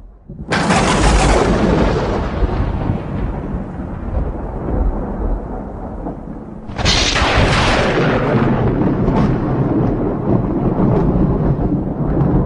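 Two thunderclaps: a sharp crack about half a second in and another a little past halfway, each rolling on into a long, low rumble.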